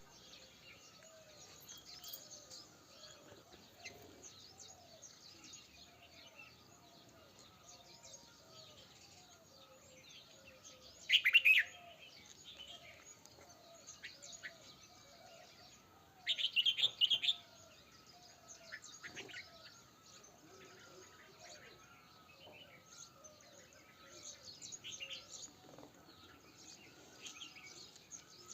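Birds chirping in the open, mostly faint, with two louder bursts of rapid chirping about eleven and sixteen seconds in, over a faint string of short, repeated lower calls.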